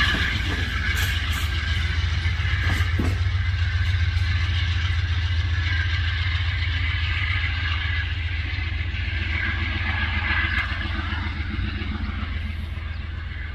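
Freight train rolling past: a steady low rumble with the noise of wheels running on the rails, easing off a little near the end.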